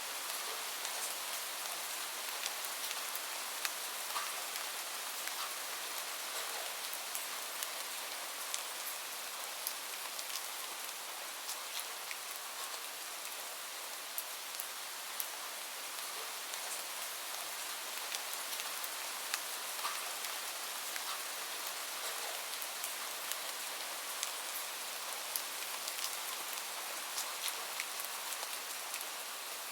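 Steady rain falling, with frequent short, sharp crackles and pops from a wood fire scattered through it.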